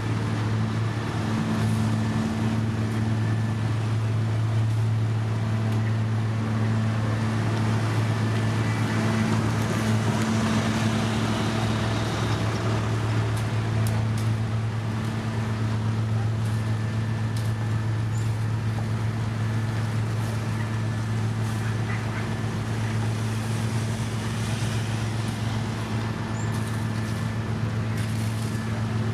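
Heavy road-construction machine's diesel engine running steadily, a low hum that holds its pitch throughout.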